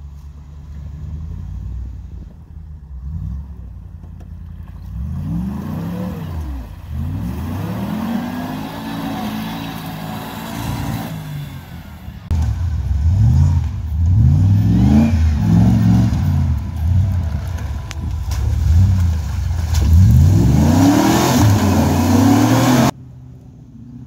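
Land Rover engine working hard off-road, revs surging up and falling back repeatedly as the driver drives it through mud and up a bank. It is louder from about halfway through and cuts off suddenly near the end, leaving a quieter, steadier engine sound.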